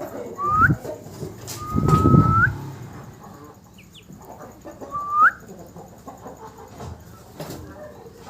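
Young Aseel chickens calling: three whistled peeps that rise in pitch, the middle one held level before rising, over low rustling and bumping.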